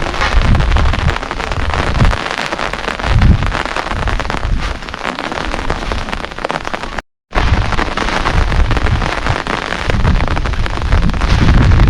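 Heavy rain falling steadily, with uneven low rumbling surges that grow stronger near the end. The sound cuts out completely for a moment about seven seconds in.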